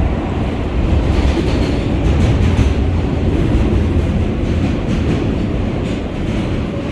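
A subway train running through the tunnel: a loud, steady rumble of steel wheels on the rails, with some clickety-clack from the track joints.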